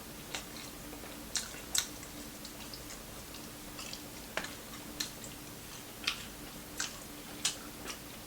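Close-up chewing of crispy fried fish and chicken wings: sharp, irregular crunches about once a second, over a faint steady hum.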